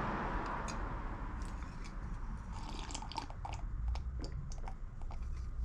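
Close-up mouth sounds of someone sipping hot cocoa, a scatter of small clicks and smacks, over a low steady hum.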